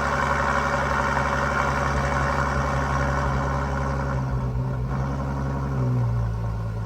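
Ferrari FF's V12 engine running loudly on its cold-start catalyst-heating fast idle. About four seconds in it begins to change, and near six seconds it drops to a lower, quieter idle. The owner says this step down is not smooth and brings a slight misfire and a wandering idle.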